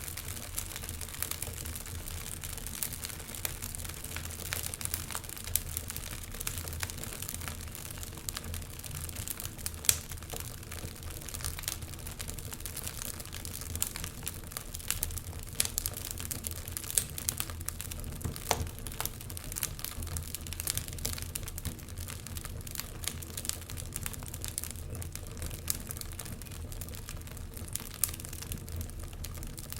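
Wood fire crackling: irregular sharp pops and snaps over a low steady rumble, with one louder pop about ten seconds in.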